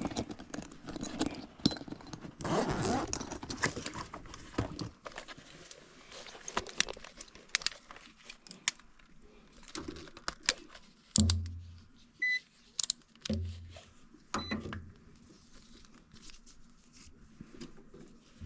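Hand tools and small metal furnace parts being handled: a run of clicks, clinks and rustling, busiest in the first few seconds. Three short low hums and one brief high beep come a little past the middle.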